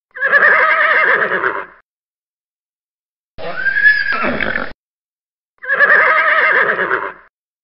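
Horse whinnying three times. A wavering whinny about a second and a half long is followed by a shorter call that drops steeply in pitch at its end, and then the same wavering whinny again near the end.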